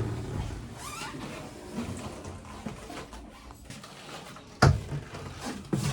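Faint rustling and handling with a sharp knock about four and a half seconds in, then a lighter click near the end.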